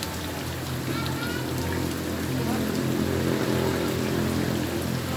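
Steady rain with pattering drops, and a motor vehicle's engine running close by, swelling louder through the middle of the stretch.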